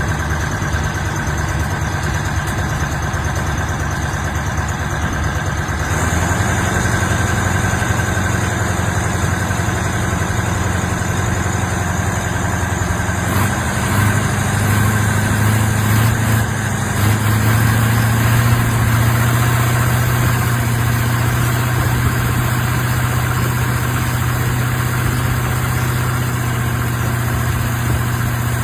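Car engine fitted in a boat, running steadily. Its note steps up about six seconds in, rises again with a few surges around the middle, then holds at a higher, steady pitch.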